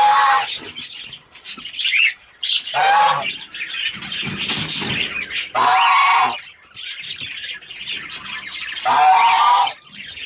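Budgerigar chattering and warbling, with a louder, wavering call about every three seconds.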